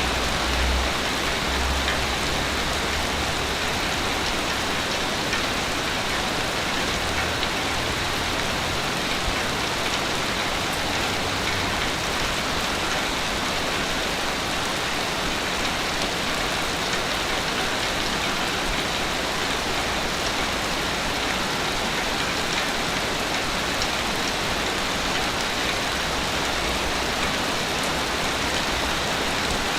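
Ocean waves washing on a beach: a steady, even hiss of surf with no distinct breaks, with some low rumble in roughly the first ten seconds.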